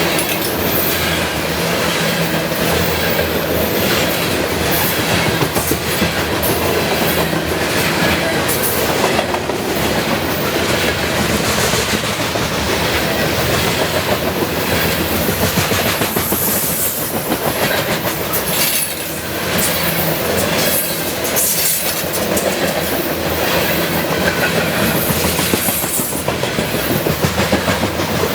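Norfolk Southern freight train's cars rolling past, loud and steady, wheels clicking over the rail joints in a continuous clatter.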